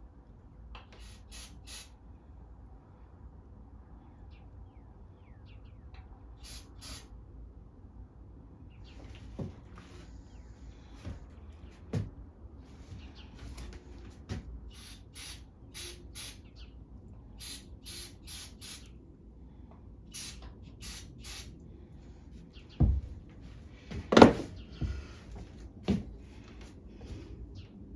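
Short, high-pitched chirps repeating on and off, often in pairs, typical of a small bird calling. Near the end come a few sharp knocks, the loudest sounds here.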